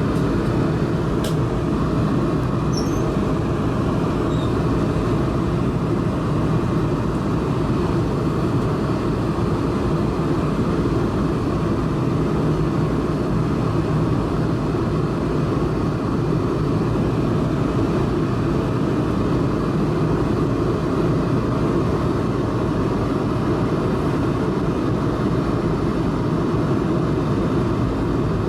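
Steady cabin rumble of an Airbus A220-300 in cruise: engine and airflow noise at an even level, heaviest in the low range.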